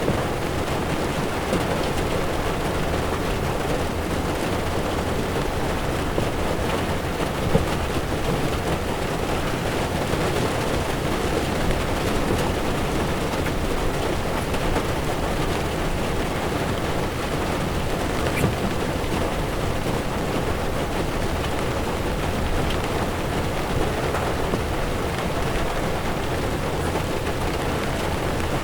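Heavy rain drumming on a car's windshield and roof, with tyres hissing on the wet road: a steady rush with a few small ticks from drops.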